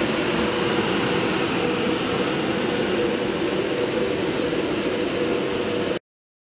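Class 390 Pendolino electric train moving along the platform: a steady rumble and hiss of wheels and running gear with a steady hum. It cuts off suddenly near the end.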